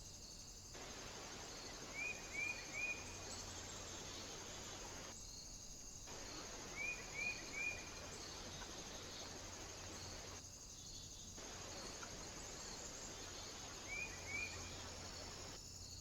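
Steady faint hiss of outdoor background noise, with a small bird calling three times: each call is a quick group of two or three short, high chirps, a few seconds apart.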